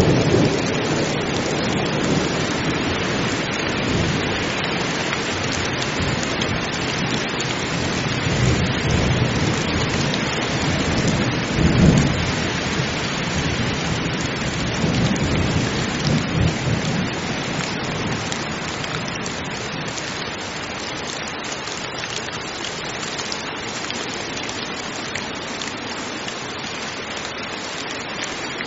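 Heavy rain falling steadily, with low rolls of thunder. The strongest clap comes about twelve seconds in, and the thunder dies away over the last third, leaving the rain alone.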